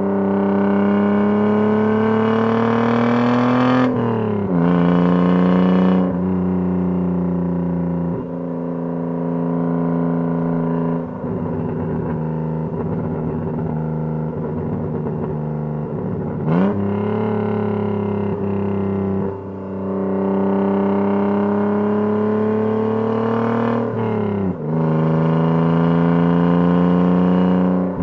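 BMW E36 engine and RR Performance exhaust heard from inside the cabin, accelerating through the gears: the engine note climbs steadily for a few seconds, then drops sharply at each upshift, several times over.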